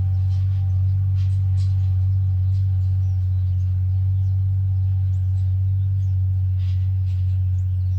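Small tractor engine running steadily under load while pulling a disc harrow, a constant low drone that holds the same pitch throughout, with faint light ticks and chirps above it.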